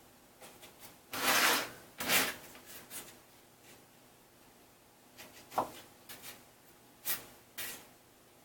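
Short scraping and rubbing handling sounds as a sheet of roofing felt is measured and marked out: two longer scrapes about one and two seconds in, then a few brief scuffs and taps.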